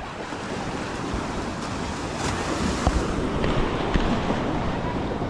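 Sea surf washing onto a beach, a steady rushing that grows a little louder about a second in, with wind buffeting the microphone.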